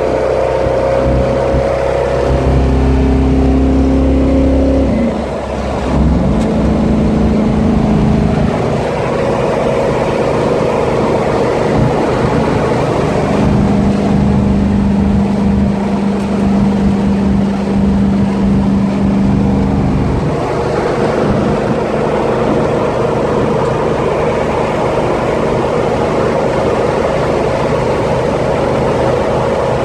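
The engine of a 1968 Ford Mustang 'Eleanor' running while the car is driven. Its note holds a steady pitch for several seconds at a time and shifts between stretches, with a short drop in level about five seconds in.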